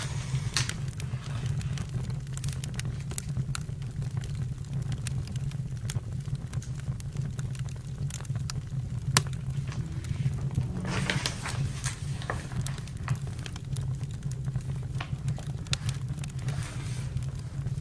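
Campfire crackling: scattered sharp pops and snaps over a steady low rumble, with a brief louder hiss about eleven seconds in.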